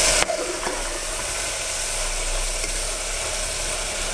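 Chopped vegetables sizzling steadily in hot oil in a pressure cooker pan, sautéing. A louder stir or scrape from the spatula right at the start, then the sizzle carries on evenly.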